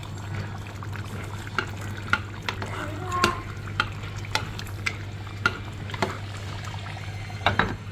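Spoon stirring a pan of butter chicken sauce, scraping and clicking against the pan about every half second, over a steady low hum.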